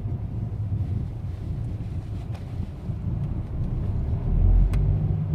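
BMW 123d's twin-turbo four-cylinder diesel engine running with a low rumble, which swells briefly about four seconds in; a single sharp click comes during the swell.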